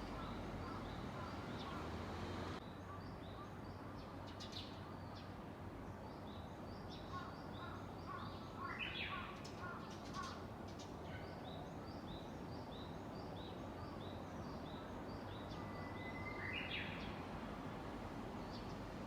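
Japanese bush warbler (uguisu) singing: a burst of notes about halfway through, and late on its long held whistle that breaks into a quick flourish. Small high chirps from other birds repeat throughout over steady outdoor background noise.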